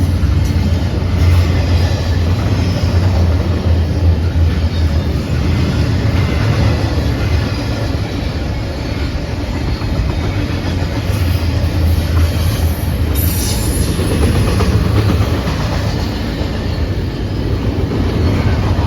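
CPKC intermodal freight train rolling past, a steady loud rumble of wheels on rail with clickety-clack over the joints. A brief high wheel screech about two-thirds of the way through.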